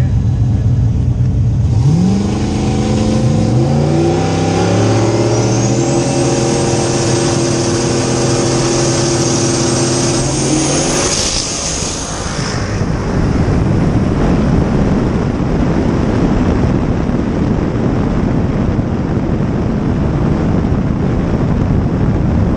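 Turbocharged V8 drag cars idling, then revved up about two seconds in and held at high revs on the line while a high turbo whistle climbs. Just past the middle the engine note gives way to a steady rush of wind on the car-mounted microphone as the car speeds down the road.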